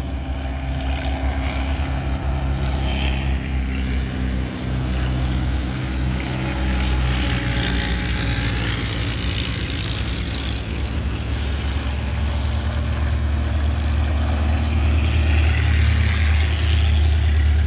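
Vintage Indy-style race cars running on the track, their engines swelling louder about halfway through and again near the end as they come past.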